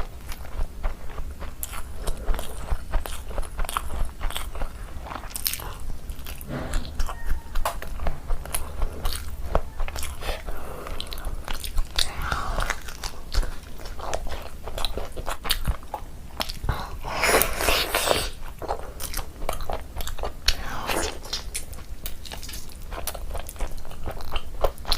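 Close-miked sounds of a person eating chicken biryani: a continuous run of irregular biting and chewing clicks, with a steady low hum underneath.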